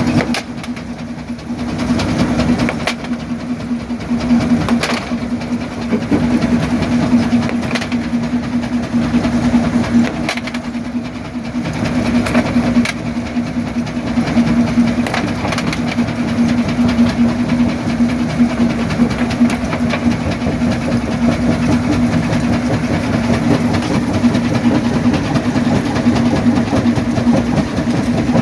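Quarry primary jaw crusher running with a steady hum, with irregular knocks and cracks as rocks are broken in its jaws.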